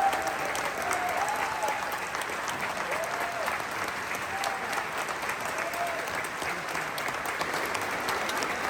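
Concert hall audience applauding steadily: dense clapping, with a few short voices calling out over it.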